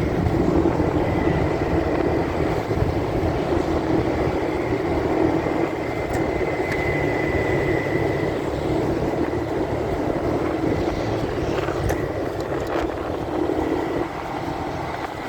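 Steady motorcycle riding noise, engine and wind rumble, picked up by a phone carried inside a pocket. It eases slightly near the end.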